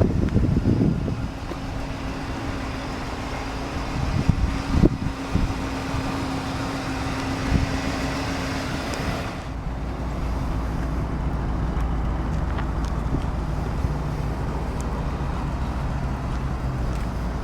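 A 1983 Buick Riviera's 5.0-litre V8 idling steadily, heard from outside the car, with a few brief knocks early on. About halfway through, the low rumble becomes stronger.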